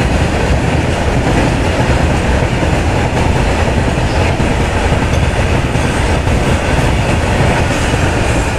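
Freight train of tank wagons rolling past on the adjacent track: a steady rumble of wagons and wheels, with faint clacks of the wheels over the rail joints.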